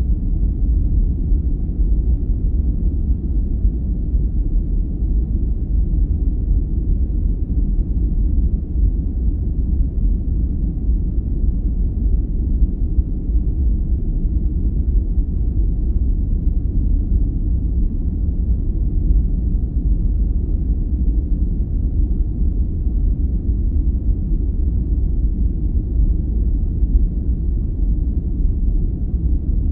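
Steady low, rumbling sleep noise: an even hiss-free noise weighted to the bass with no highs, unbroken and unchanging.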